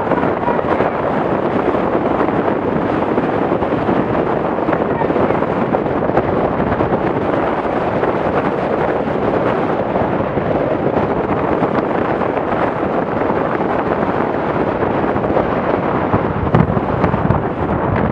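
Strong wind buffeting the microphone: a loud, steady, dense rush with no engine note.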